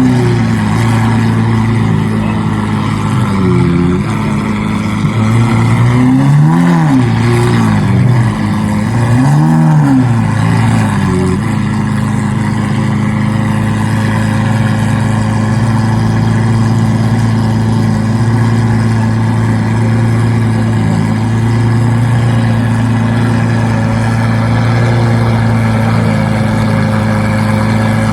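Car engine revved in several short blips that rise and fall, then settling to a steady idle about eleven seconds in.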